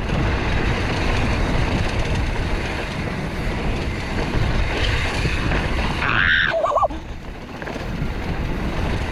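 Steady wind buffeting the microphone over the rumble of mountain-bike tyres rolling fast over a rough dirt and rock trail, with one short pitched, wavering sound about six seconds in.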